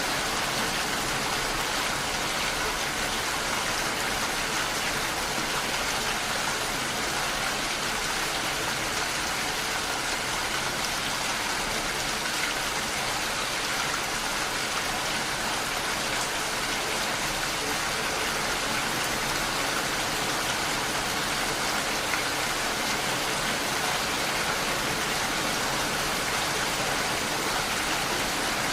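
Steady rainfall, an even hiss of rain with no change in strength.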